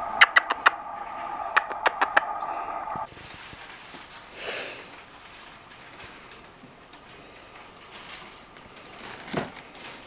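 A fledgling tit giving short, high chirps, with a run of sharp clicks over a steady hum for the first three seconds. After that, quieter: a few scattered chirps, a soft swish and a single thump near the end.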